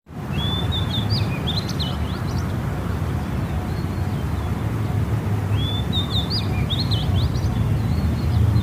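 A small songbird singing two short phrases about four seconds apart, each a held note that breaks into quick rising and falling notes, over a steady low background rumble.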